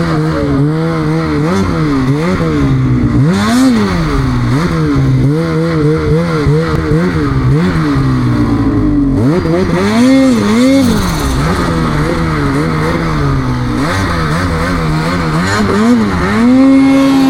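Snowmobile engine revved up and down over and over as the throttle is worked on and off, the sled struggling in deep snow. Near the end it holds a steady higher pitch.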